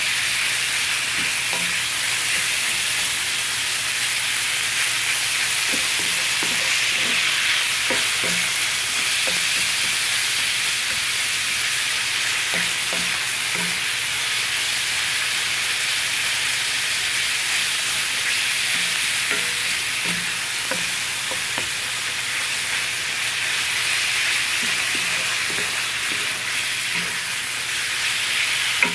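Ground beef and diced onion sizzling in a cast-iron skillet as they brown: a steady frying hiss. A wooden spatula scrapes and taps against the pan at irregular moments as the meat is stirred and broken up.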